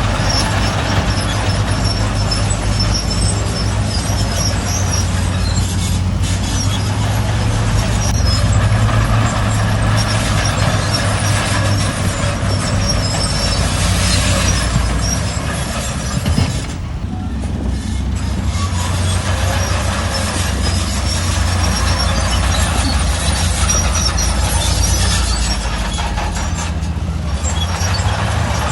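Heavy diesel earthmoving machinery running steadily, with a deep engine hum and faint high squeaks at times; the sound briefly eases about two-thirds of the way through.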